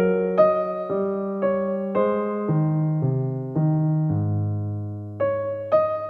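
Soft background music: an electric piano playing a slow, gentle melody of single notes about every half second, over a held low bass note in the second half.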